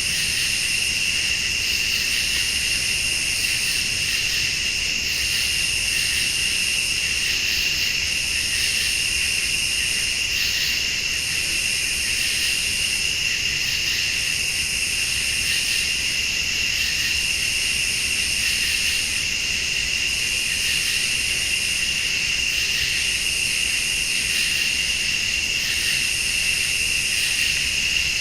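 Night insect chorus of crickets and late-summer bugs: a steady high trill, with a still higher buzz that comes and goes about every two seconds.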